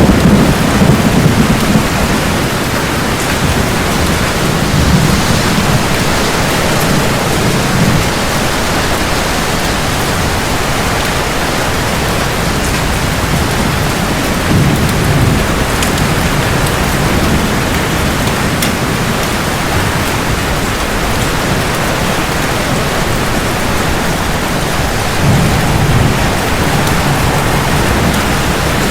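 Steady heavy rain falling, with low rolls of thunder rumbling in the first few seconds, again about halfway through and once more near the end.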